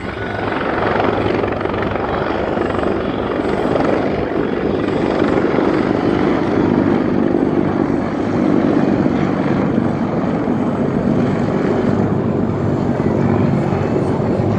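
Aircraft engine noise, a loud steady drone with a low hum beneath, swelling during the first second and then holding.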